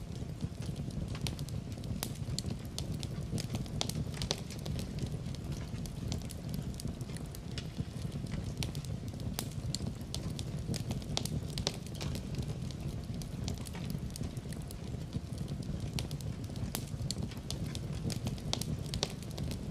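Wood fire burning in a fireplace, a steady low rumble of flames with frequent irregular crackles and pops.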